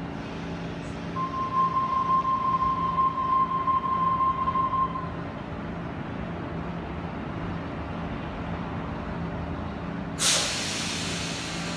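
Sydney Waratah double-deck electric train standing at the platform with a steady low hum. A steady high tone sounds for about four seconds from about a second in, and about ten seconds in a sudden loud hiss of released air cuts in and fades within a second.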